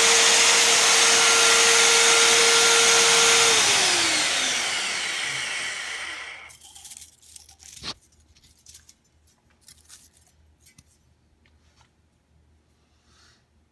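Magnetic drill press motor running steadily, then switched off and spinning down, its pitch falling over a couple of seconds until it stops. After that, a single sharp knock and a few light clicks.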